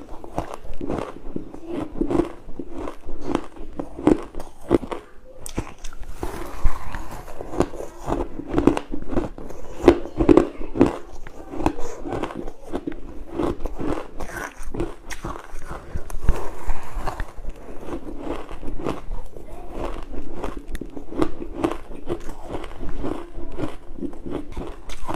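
Crushed and shaved ice being bitten and crunched close to the microphone, a steady run of sharp, irregular crunches several times a second.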